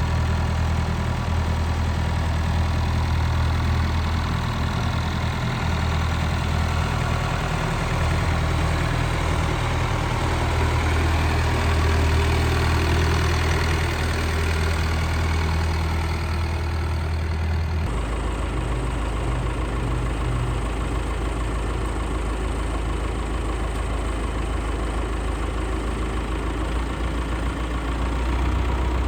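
Massey Ferguson 175 tractor engine running steadily at idle. Its low note changes abruptly a little over halfway through.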